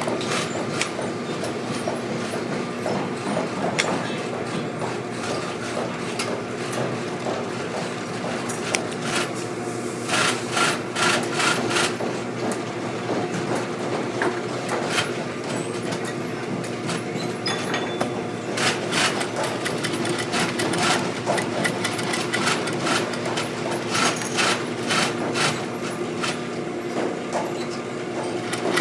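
A shop machine running steadily with a constant hum, with several bursts of rapid knocking and clicking from work on the boot.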